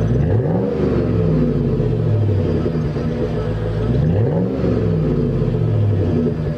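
2001 Chevrolet Tahoe's 5.3-litre Vortec V8 through a Flowmaster Super 44 muffler and 3-inch exhaust, running steadily at idle and revved in two quick blips about four seconds apart, the pitch rising and falling each time.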